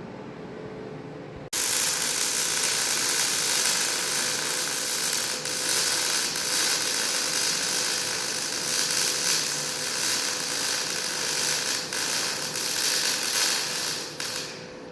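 Stick (arc) welding on steel: the arc strikes abruptly about a second and a half in and runs as a steady crackling sizzle, laying a bead to patch the deer stand's metal ladder, then breaks off near the end.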